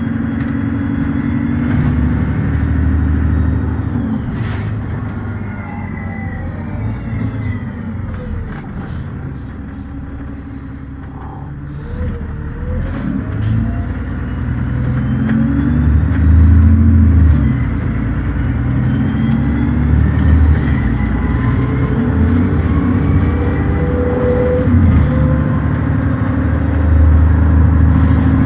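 Dennis Trident double-decker bus engine heard on board: the engine falls away as the bus slows. From about twelve seconds in it builds up again and runs hard under acceleration, the revs rising and dropping through gear changes.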